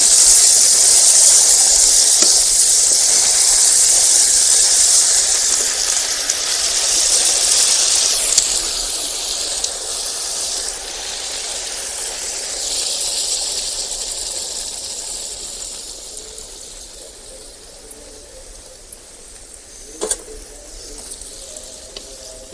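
Marinated chicken sizzling in a very hot homemade tandoor, a steady hiss that slowly dies down, with a single click near the end.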